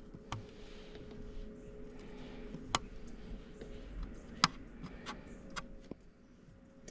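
Scattered sharp clicks and taps of hive parts being handled during a hive inspection, about five in all, over a faint steady hum.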